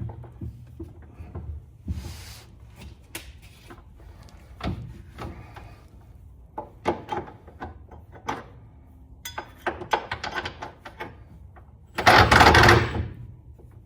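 Scattered metal clicks, clinks and knocks of hand tools and parts being worked on a car's suspension bolts, with one loud harsh noise lasting about a second near the end.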